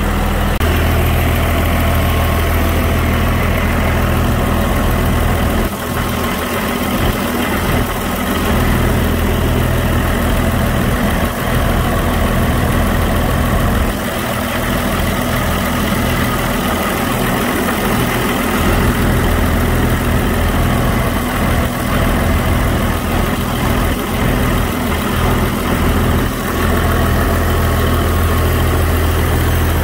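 Caterpillar 3406 inline-six diesel engine idling steadily, running without its air filter shortly after being restarted from eight years of sitting.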